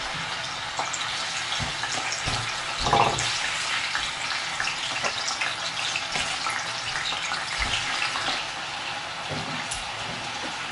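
Tofu cubes frying in hot oil in a pan: a steady sizzle dotted with many small crackles and pops.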